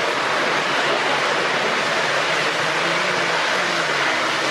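Lionel O-gauge model trains running on the layout's track, a steady rolling whir and rumble, with faint voices murmuring in the background.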